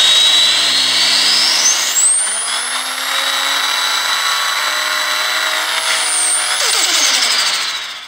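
Engine revving with a loud high-pitched whine that climbs steeply about two seconds in, holds, then sweeps down and fades out near the end.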